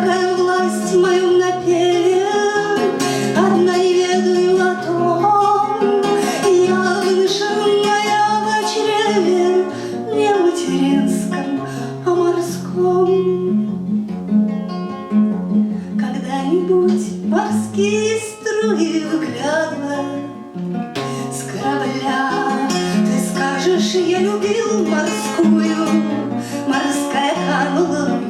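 Acoustic guitar playing the song's accompaniment live, plucked notes over a steady bass line, with singing heard in places.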